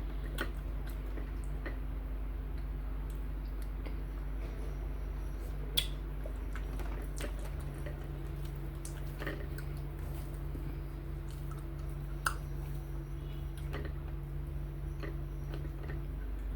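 Close-up eating sounds of fufu and okra soup: wet squishing and chewing, with scattered small clicks and two sharper ones about 6 and 12 seconds in, over a steady low hum.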